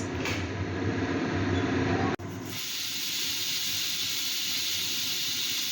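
Pressure cooker venting steam through its weight whistle: a steady hiss that changes abruptly about two seconds in to a brighter, even hiss.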